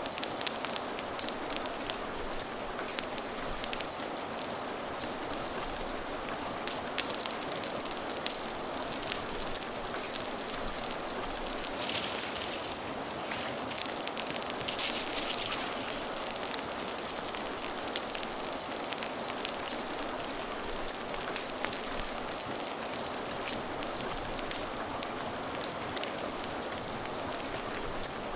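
Steady rain ambience mixed with a crackling fire: a continuous hiss of rain with many small ticks and pops scattered through it.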